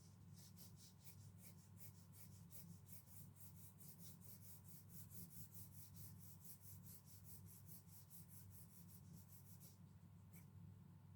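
Pencil hatching on paper: quick, even back-and-forth shading strokes, about five a second, which pause briefly near the end and then resume.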